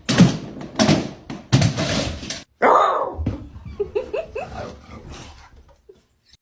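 A dog barking several times in short, sharp bursts, then a few short rising whines.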